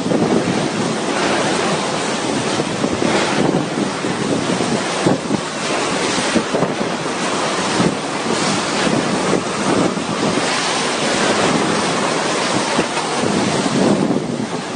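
Cyclone-force wind gusting hard against the microphone in a constant loud rush, with driving rain. The noise swells and dips with each gust.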